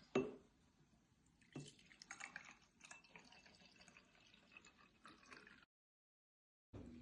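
Faint dripping and liquid sounds with scattered small clicks, opened by a sharp click. Near the end the sound cuts to dead silence for about a second.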